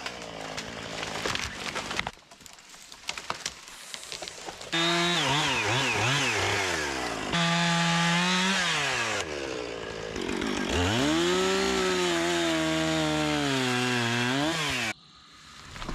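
Chainsaw engine revving and cutting wood, its pitch swinging up and down quickly as the throttle is worked and the chain loads in the cut. It comes in several loud stretches that break off abruptly, after a quieter, scratchy first few seconds.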